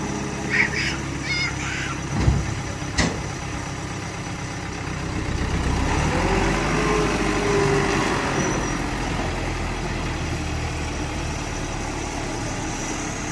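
Heavy earthmoving diesel engine running steadily, with two sharp knocks early on. In the middle it works harder, louder for a few seconds with its pitch rising and falling, then settles back to a steady run.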